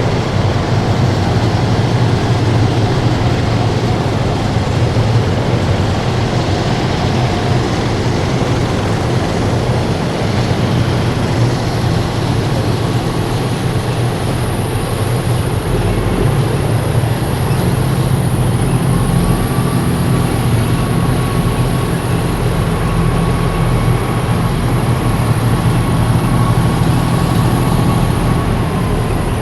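Heavy military vehicles driving past in a column, their big engines running with a loud, deep, steady drone. A faint whine joins about two-thirds of the way through.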